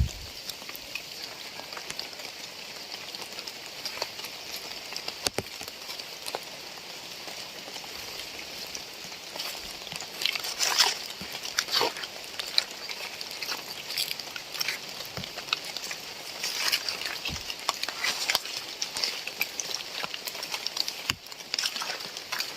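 Steady rain with a patter of close drops, heavier in spells about halfway through and again later.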